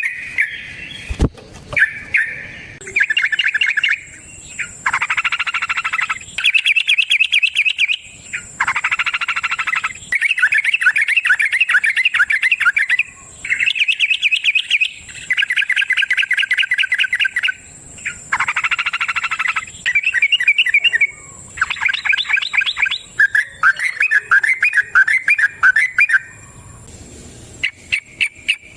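Yellow-vented bulbul (trucukan) singing long rapid chattering phrases, one burst after another, each a second or two long with short pauses between, with a thin steady high tone behind most of it.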